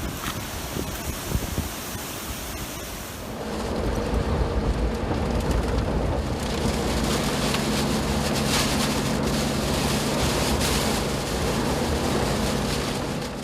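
Hurricane wind and rain, a steady rushing noise. About three seconds in it changes and grows louder, with a steady low hum underneath.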